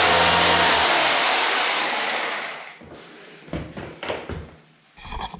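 Power drill with a carbide-tipped masonry bit boring into old reinforced concrete. It is released about a second in: a falling whine as it spins down, with the grinding noise fading out over the next two seconds. A few short knocks follow near the end.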